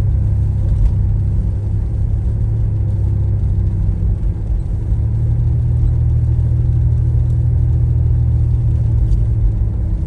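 Steady low rumble of a car driving, with a faint steady hum above it.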